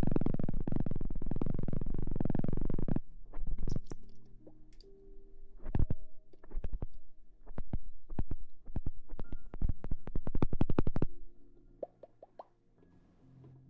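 Close-miked ASMR trigger sounds: a dense low rumble stops abruptly about three seconds in. A rapid run of sharp taps and clicks follows for about eight seconds, then it goes quiet near the end.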